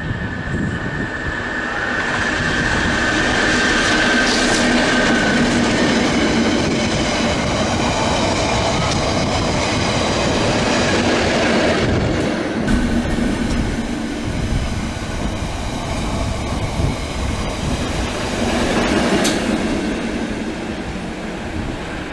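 Diesel-hauled train passing close by on the rails: engine note and steady wheel-on-rail rumble, with a high steady squeal in the first few seconds. The sound cuts abruptly about halfway through to another loud pass.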